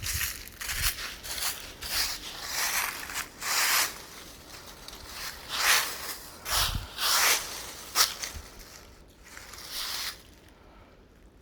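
Footsteps crunching through dry fallen autumn leaves, a crisp crunch roughly every half second, with the odd low thud of a footfall. The steps stop about ten seconds in.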